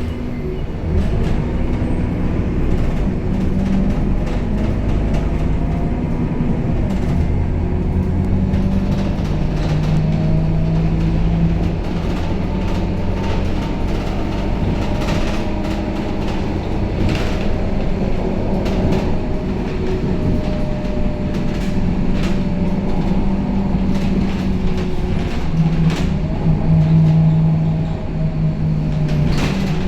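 Scania K270UB city bus heard from inside while it drives, its diesel engine running with the pitch rising and falling as it speeds up and slows. Short rattles and clicks from the cabin come and go throughout.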